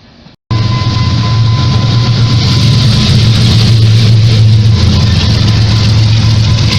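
Diesel locomotive engine running steadily with a deep hum, cutting in abruptly about half a second in.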